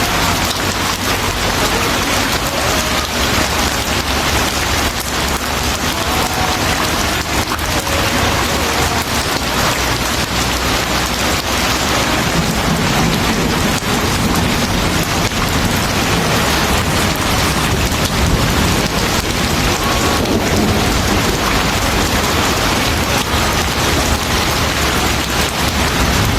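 Steady, heavy rain falling and pattering, with a low, continuous rumble of thunder underneath.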